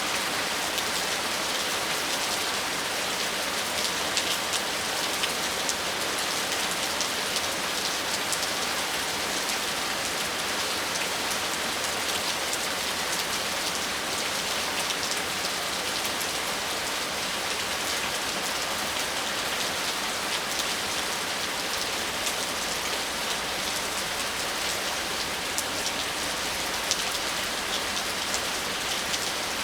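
Steady rain falling: an even hiss sprinkled with many small, sharp drop ticks, holding at one level throughout.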